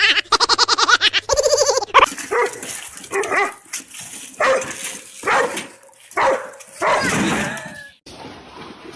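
A dog barking and yipping in a string of short, loud calls. The first two seconds are rapid pulsed calls, followed by separate calls about once a second.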